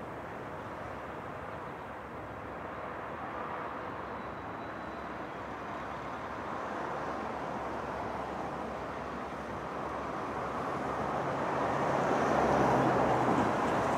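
Freight train led by NR class diesel-electric locomotives approaching: a steady rumble of engines and wheels that grows louder, with a low engine drone coming in near the end as the locomotives draw closest.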